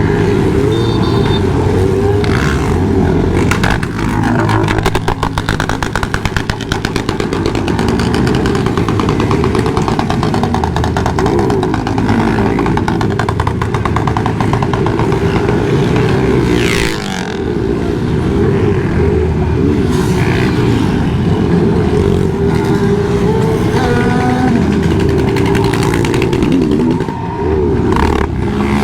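Several motorcycle engines running and revving, their pitches rising and falling and overlapping, with a stretch of fast, even engine pulsing partway through.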